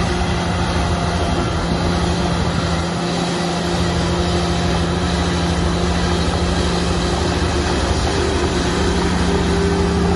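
Heavy diesel earthmoving machinery running steadily under load, a low rumble with a constant engine drone and whine.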